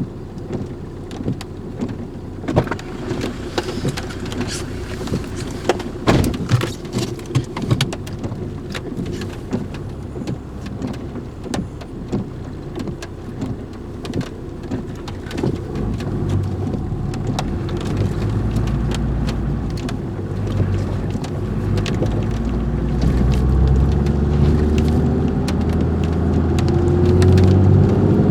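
Dense sharp ticks and taps, like rain or debris hitting a vehicle, over a low engine rumble. From about halfway the engine grows louder and rises in pitch as the vehicle pulls away.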